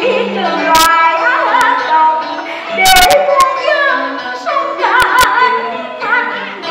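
Vietnamese traditional opera music: a woman singing a drawn-out, melismatic line with heavy vibrato over instrumental accompaniment. Sharp percussion strikes cut in about a second in, around three seconds, and about five seconds in.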